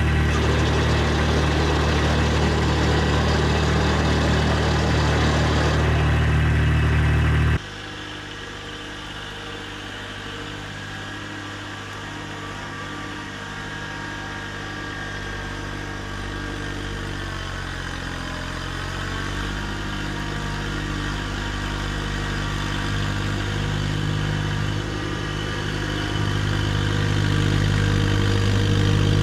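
Diesel tractor engine running steadily as it warms up. About seven and a half seconds in it turns suddenly quieter, then grows gradually louder again toward the end.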